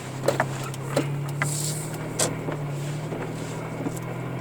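A car driving on a snow-covered road, heard from inside the cabin: a steady low engine drone with scattered sharp clicks and knocks.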